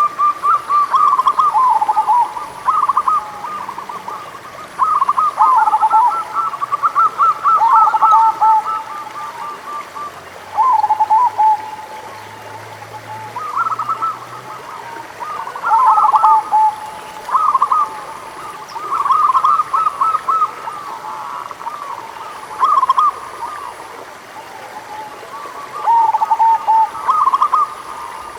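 Zebra doves (perkutut) singing: repeated bouts of quick, stuttering coos, each phrase a few seconds long, with short pauses between them.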